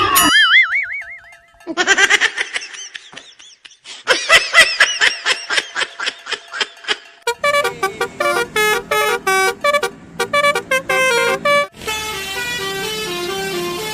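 Musical multi-tone 'telolet' bus horn (Basuri type) playing quick tunes of short stepping notes in several phrases, opening with a warbling tone.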